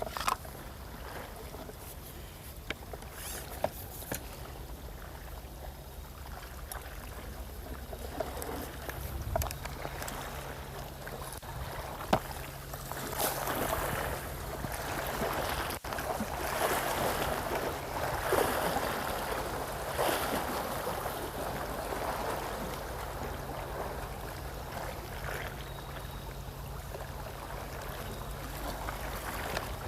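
Sea water washing and lapping against the shore, swelling louder in the middle, over a steady low hum.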